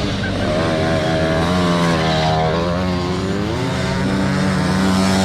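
Motocross bike engines running on the track, several pitches rising and falling as the riders throttle on and off.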